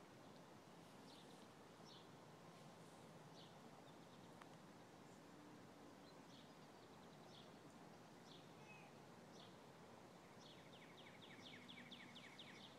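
Faint outdoor bird calls: scattered short high chirps, then a quick run of about a dozen notes near the end, over a quiet background hiss.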